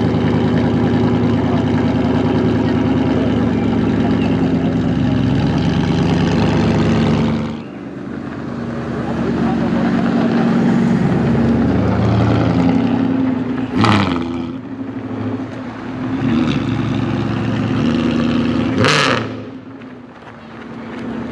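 Zagato Maserati Mostro's V8 engine running loudly and steadily, dropping off about seven and a half seconds in. It runs on at varying speed after that, with a sudden sharp loud blast about 14 seconds in and another about 19 seconds in.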